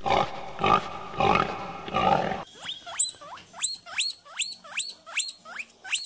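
Pig grunting in a few rough pulses, then a quick run of short, high squeals, each rising sharply in pitch, about three a second.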